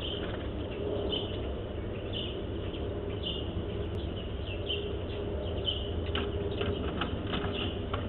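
Small birds chirping, short high chirps every half second or so, over a steady low outdoor rumble. A few short taps come in the second half.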